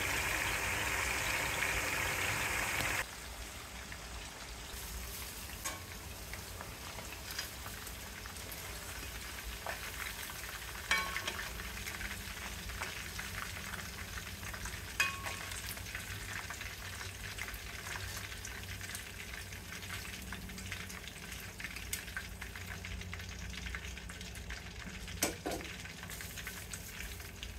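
Chicken pieces deep-frying in hot oil in a wok: a loud, dense sizzle for about the first three seconds, then a quieter steady sizzle with a few light knocks.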